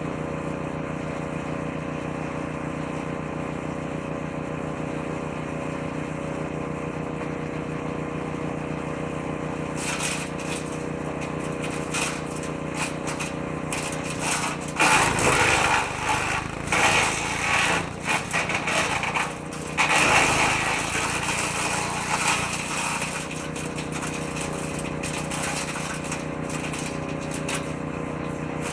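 Engine-driven woodchipper-shredder running steadily, with bursts of noisy shredding from about a third of the way in as branches are fed a bit at a time into the drum, loudest around the middle, then back to steady running near the end.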